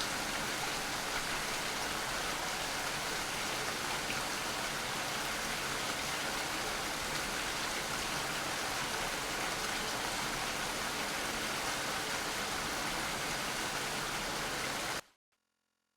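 Steady rain falling, an even hiss of many drops, which cuts off suddenly near the end.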